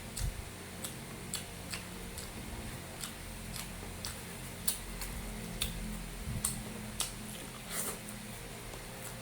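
Close-miked eating: chewing with irregular short, wet mouth clicks and smacks, roughly one or two a second, over a faint steady hum.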